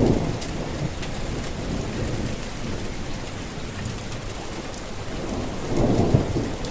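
Steady rain falling, an even hiss with occasional sharper drop ticks, and low rumbles of thunder swelling at the start and again about six seconds in.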